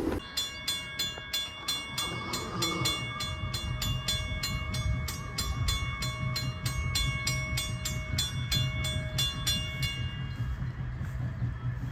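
A railroad bell ringing in quick, even strokes, about three a second, over a low train rumble. The bell stops near the end.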